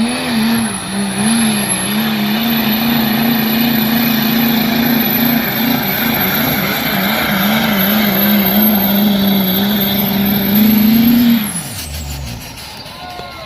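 Pulling truck's engine at full throttle during a truck pull, held at high revs with a high whine over it. About eleven seconds in, the revs drop away as the throttle is released at the end of the pull.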